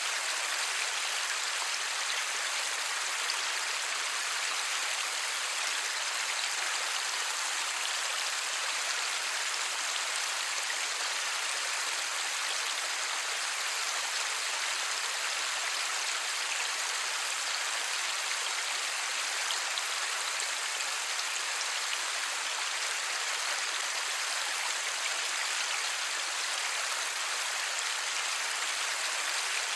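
Steady light rain falling, an even hiss with no distinct drops or thunder standing out.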